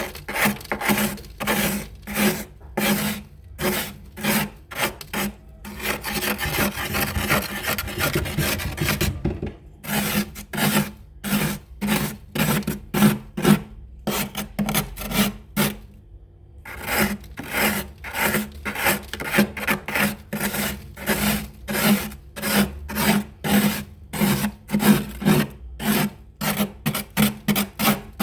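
Built-up freezer frost being scraped off the lower part of a fridge in short rasping strokes, about two a second. It breaks off in ice chunks. There is one longer continuous scrape in the first third and a short pause around the middle.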